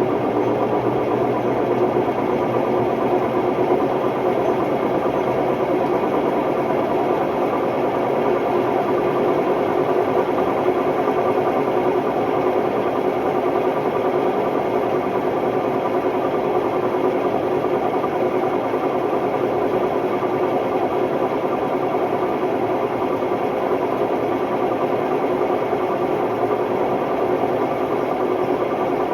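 Hotpoint Ultima WMD960 washing machine on a test spin, running extremely noisily and steadily, the drum noise of bad bearings.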